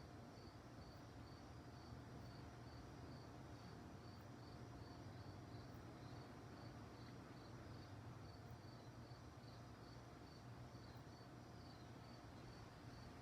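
Crickets chirping faintly, a high chirp repeated about twice a second, over a low steady background rumble.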